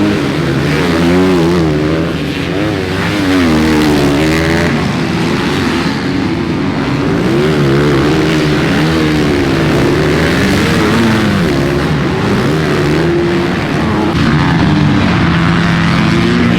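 Several motocross bikes' engines revving on the track at once, their pitch rising and falling continuously as the riders work the throttle.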